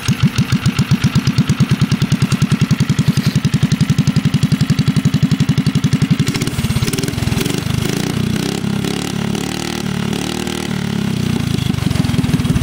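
Mini bike's small single-cylinder Briggs & Stratton engine idling with an even, rapid putt-putt. About halfway through it is given gas and runs faster for several seconds, then drops back to idle near the end.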